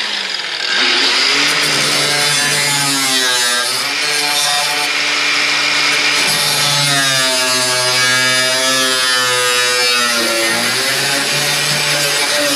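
Power saw cutting through the car body's sheet metal, starting at the outset and running continuously, its pitch rising and dipping as the blade loads and frees up.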